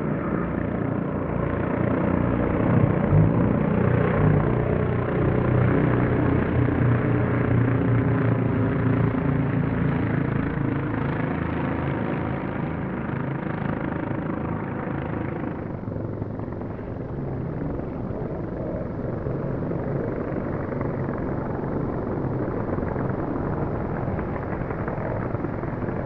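Propeller aircraft engines droning through a flypast, the pitch shifting as the aircraft pass. The sound loses its top end suddenly about sixteen seconds in and carries on duller.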